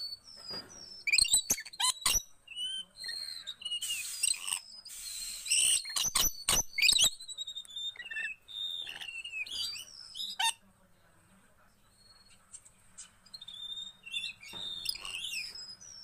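Birds calling: quick high chirps and short gliding whistles mixed with sharp clicks, and one harsh squawk-like burst about four seconds in. The calls stop for a second or two past the middle, then resume.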